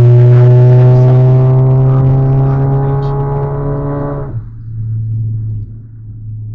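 Volkswagen Jetta 2.0 TSI turbocharged four-cylinder accelerating hard, a loud droning engine note whose pitch climbs slowly. About four seconds in it drops off sharply, leaving a lower, quieter hum.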